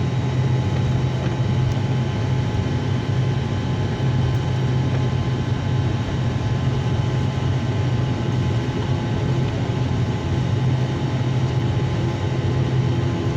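ATR 72-600 turboprop airliner's engines and propellers running in a steady drone of several constant tones, with a deep hum underneath and a second low tone joining about two-thirds of the way through.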